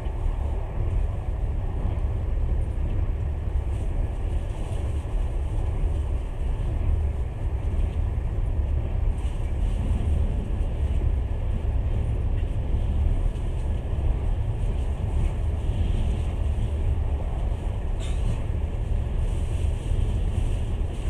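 A passenger train running, heard from inside the carriage: a steady low rumble with a fainter hiss above it.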